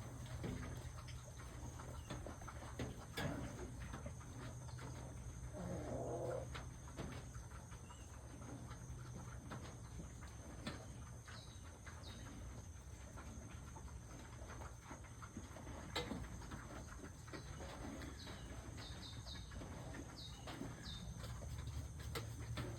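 Faint bird chirps, a few short high falling notes in two small clusters, over a low steady hum and scattered faint clicks.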